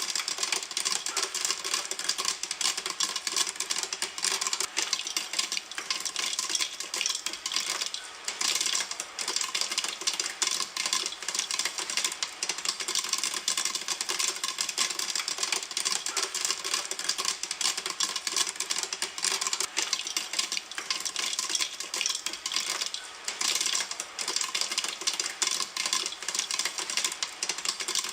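Popcorn popping in a pan: a dense run of rapid pops and crackles, with brief lulls about eight seconds in and again near twenty-three seconds.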